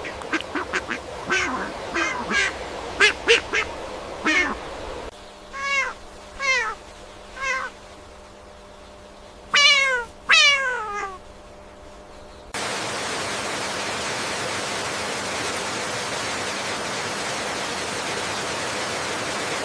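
Animal calls: a quick run of short, sharp calls, then from about five seconds in several separate calls that fall in pitch. About twelve seconds in they give way abruptly to a steady hiss.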